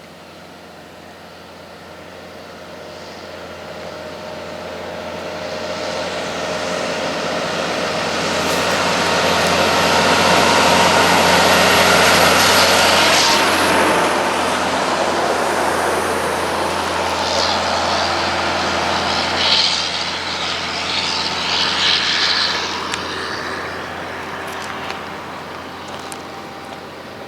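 Heavy truck passing on a highway: its diesel engine and tyre noise build up, peak about twelve seconds in, then slowly fade as it moves away.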